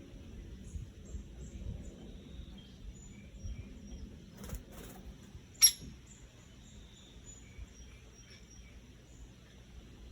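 Faint, short bird chirps over a steady high whine, with a few knocks about halfway through; the last knock is loud and sharp.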